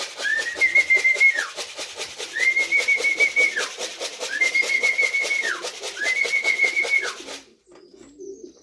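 Repeated whistling to call racing pigeons down to the loft: five whistled calls in a row, each rising, held with a wavering top, then falling. They run over a fast steady rattle and stop abruptly near the end, leaving pigeons cooing.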